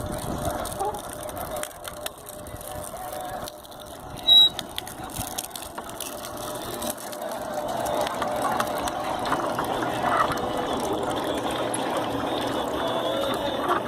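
Homemade sugarcane mill driven by a small washing-machine electric motor, running with a rattling, gear-like mechanical noise. There is a short, sharp, loud sound about four seconds in, and the noise grows louder from about eight seconds on.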